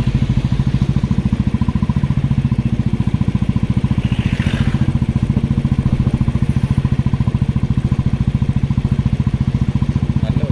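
Motorcycle engine running steadily under the rider, its exhaust pulsing fast and evenly, with a brief hiss about four and a half seconds in.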